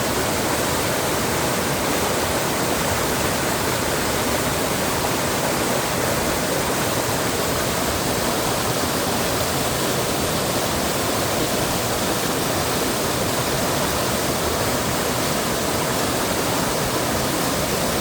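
Steady rush of flowing water from a mountain valley stream, an even roar with no pauses or changes.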